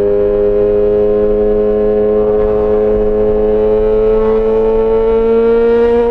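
Yamaha XJ6 S inline-four engine through an SC-Project exhaust, pulling in gear with the revs climbing slowly and evenly.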